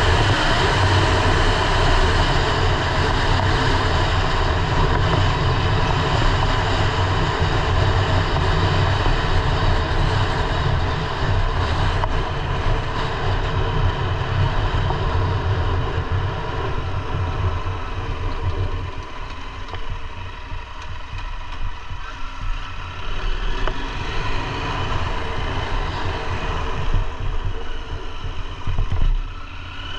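KTM 890 Adventure R's parallel-twin engine running on the move, under a steady haze of noise. It grows quieter and less deep about two-thirds of the way through.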